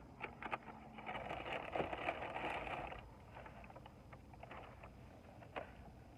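Faint sounds of someone eating: scattered small clicks, and a rustle lasting about two seconds that starts about a second in.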